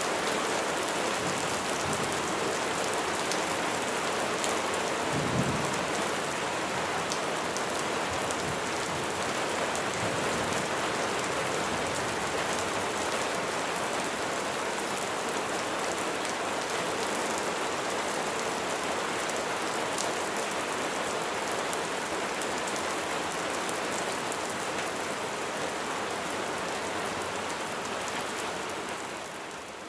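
Steady rain falling, a dense hiss with many sharp individual drop ticks. A brief low thump comes about five seconds in, and the level dips slightly near the end.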